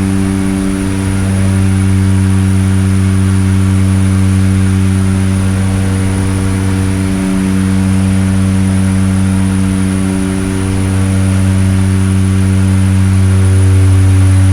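Seaplane's propeller engines droning steadily at cruise, a deep even hum with a faint high whine above it.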